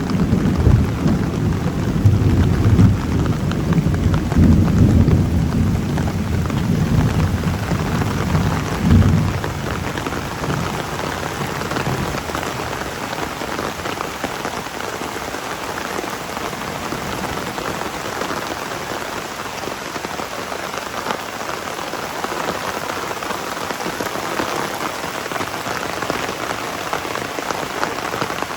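Heavy rain falling steadily, with a loud rolling rumble of thunder through the first nine seconds or so that dies away, leaving only the rain.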